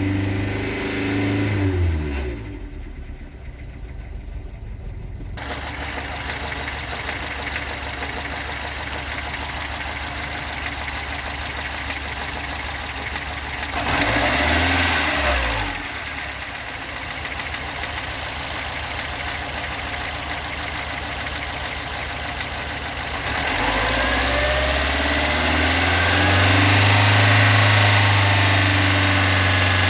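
Toyota AE86's stock blue-top 4A-GE twin-cam four-cylinder engine running, its revs dropping about two seconds in, briefly rising and falling again about halfway through, and rising near the end to stay higher. The owner complains of a rough idle and a knocking sound whose cause he has not found.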